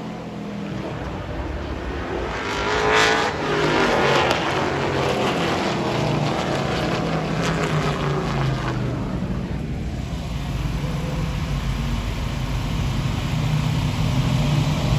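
Super trucks' race engines running on a short oval. One truck passes close about three seconds in, loud and then falling in pitch as it goes by, followed by a steadier mix of engine sound.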